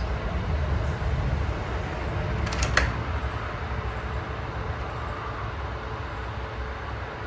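A single sharp crack about two and a half seconds in, a shot from a Winchester 52C .22 rimfire target rifle, over a steady low rumble.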